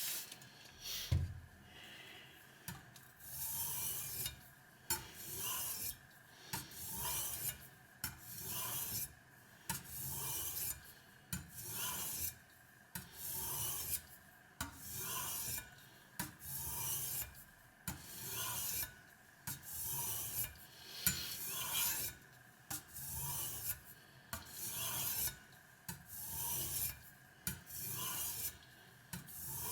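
Kitchen knife blade drawn across a Spyderco medium-grit aluminium oxide bench stone wetted with water, in steady scraping strokes about one a second. There is a single knock about a second in.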